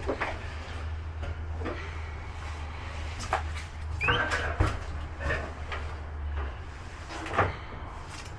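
Heavy boxed freight being set down and shifted: scattered knocks, scrapes and clatters, with a short rising squeak about four seconds in. A steady low hum runs underneath and stops about two-thirds of the way through.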